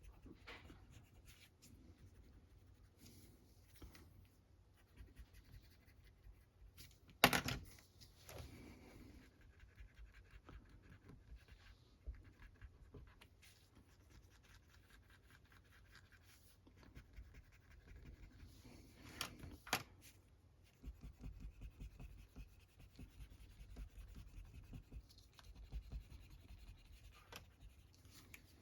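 Eraser rubbing and scrubbing over a comic book's paper cover to lift surface dirt: faint scratchy strokes, with a quick run of strokes in the last few seconds. A sharp knock about seven seconds in and two lighter ones near twenty seconds.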